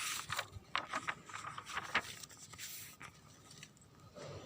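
Faint, irregular scraping and clicking, a handful of short rubs and taps over the first three seconds, then quiet room tone.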